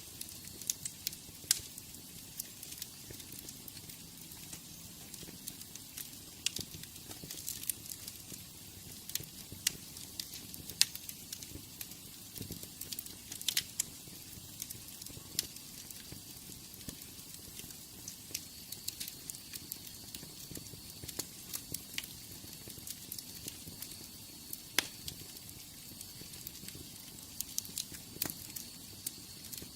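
Wood fire in a fireplace crackling, with irregular sharp pops and snaps over a soft steady hiss and low rumble of the flames. A faint high, steady whistle joins about halfway through.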